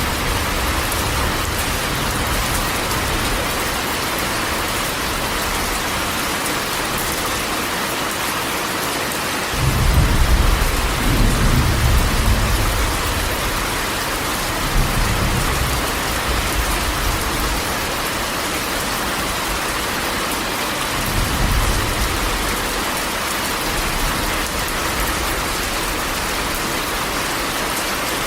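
Steady heavy rain drumming on a corrugated metal roof, with a low roll of thunder about ten seconds in and shorter, fainter rumbles near fifteen and twenty-one seconds.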